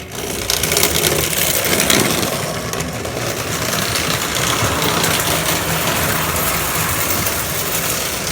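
A 1940s electric toy train set starting up and running on its track: a steady mechanical whirring and rattling from the locomotive's motor and the wheels, beginning about half a second in.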